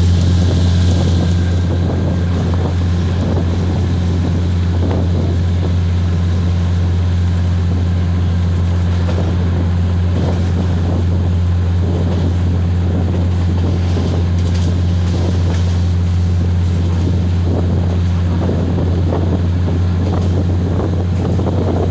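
Diesel train engine running with a steady low drone at an unchanging level, with wind rumbling on the microphone.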